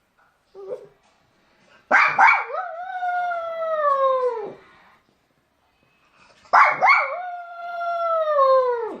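A dog howling for its absent owner: twice, two sharp yips lead into a long howl that slides slowly down in pitch, after a brief faint whine near the start.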